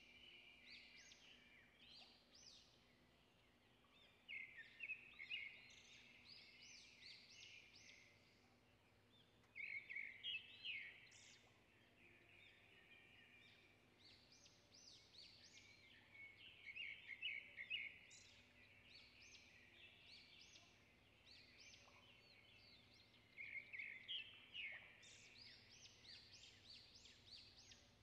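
Faint songbird singing in bouts of quick high chirps, a phrase every few seconds, over a low steady hum.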